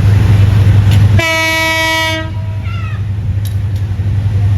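Train horn sounding one blast of about a second, a rich steady tone, followed by a short downward-sliding note, over a steady low rumble.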